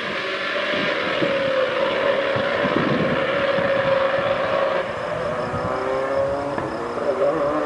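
Rally car engine running at a fairly even pitch that wavers slightly, under a steady rush of road and wind noise; the level dips a little about five seconds in.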